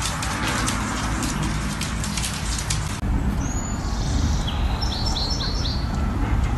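A run of sharp, irregular clicks, then after a cut about three seconds in, small birds chirping: a short high whistle followed by a quick run of four or five chirps, over a steady low rumble.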